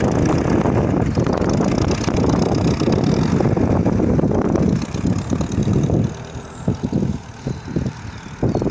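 Loud rushing and rumbling of air around the K21 glider and its microphone. About six seconds in it drops away into broken, gusty bursts.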